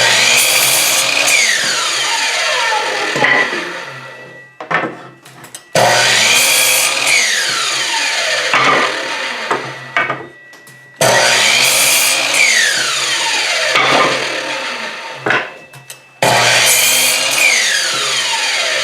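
Chicago Electric 10-inch sliding miter saw making four quick cuts through scrap wood, about five seconds apart. Each time the motor starts suddenly, cuts, then its whine falls in pitch as the blade winds down under the saw's electronic brake.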